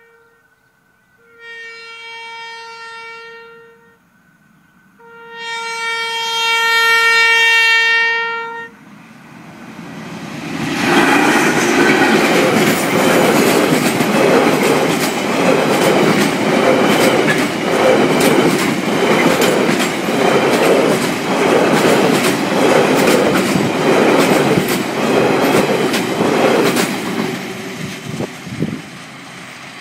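Irish Rail 201 class diesel locomotive no. 230 sounding its horn on one steady note: the end of one blast, a blast of about three seconds, then a longer, louder one. The locomotive and its laden timber wagons then pass close by, with a loud rumble and a regular clatter of wheels roughly once a second, which fades away near the end.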